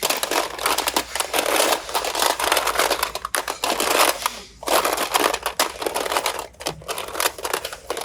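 Dense crackling and crinkling from hands squishing and kneading slime, broken by short pauses about three and a half and four and a half seconds in.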